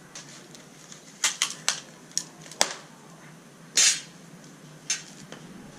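A series of sharp clicks and light knocks, about six spread out, with one brief rustling burst just before the middle, from handling exhaust parts while packing glass wool into them.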